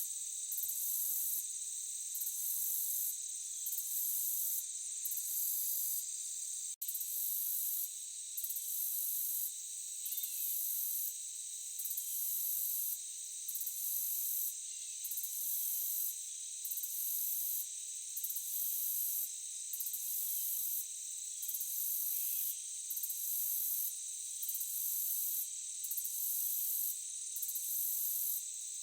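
Forest insect chorus: a steady high-pitched trilling with a higher chirping layer that pulses about once a second. The sound cuts out for an instant about seven seconds in.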